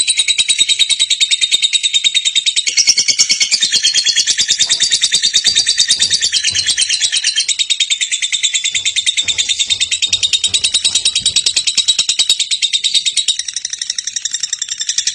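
Lovebird's long 'ngekek' song: a high, rapid chattering trill that runs on without a break, easing off slightly near the end.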